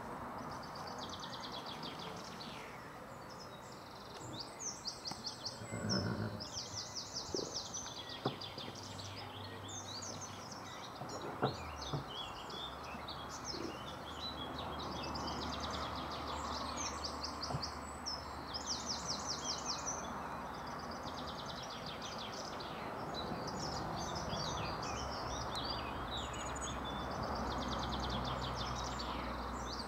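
Small songbirds singing: fast trilled phrases repeat every few seconds over a steady outdoor background hiss. A low steady drone comes in about a third of the way through.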